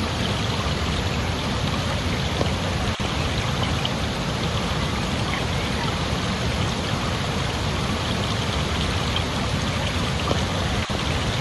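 Running water, like a stream, flowing in a steady rush with fine splashing. It cuts out for an instant twice.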